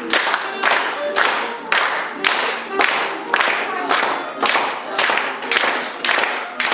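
Audience clapping in unison, about two claps a second, with music playing faintly underneath.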